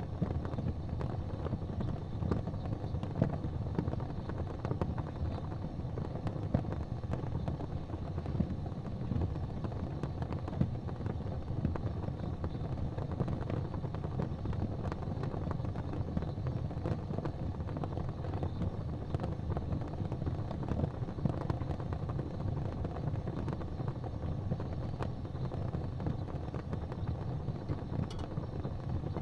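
Wood fire burning in a fireplace: a steady low rumble of the flames with frequent small crackles and the odd louder pop.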